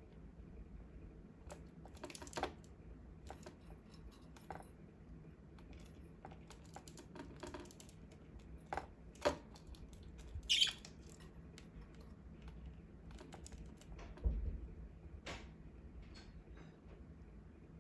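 Budgies pecking at food, making scattered light clicks and taps at an irregular pace, with a few louder taps.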